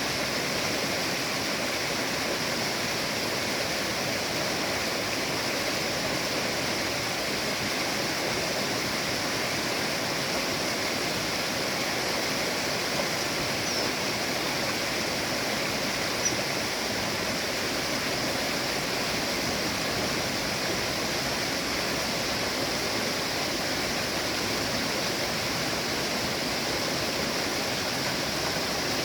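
Steady rush of flowing river water, with two brief faint high chirps about halfway through.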